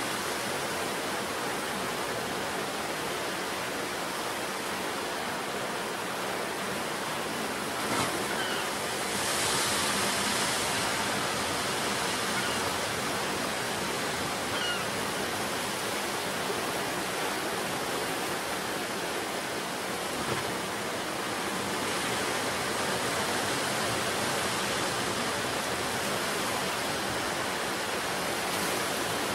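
Sea surf: a steady wash of waves breaking and running up the shore, swelling louder for a moment about a third of the way in. A single short click sounds just before that swell.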